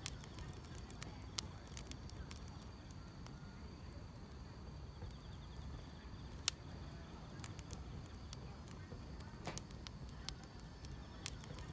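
Wood fire crackling with irregular sharp pops, the loudest about six and a half seconds in, over a low steady rumble of the flames, with grass insects chirring faintly and steadily in the background.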